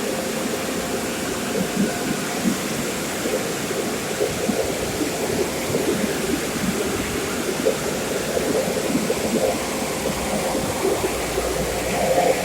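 Automatic car wash water jets spraying against the car, a steady rushing hiss with spattering. A low rumble joins near the end.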